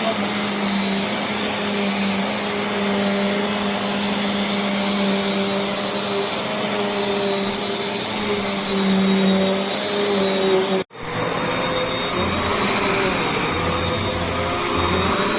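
Bissell CleanView Compact upright vacuum running steadily at full suction, a continuous motor hum with a whine over it. About eleven seconds in the sound cuts out for a split second and comes back with a slightly different pitch.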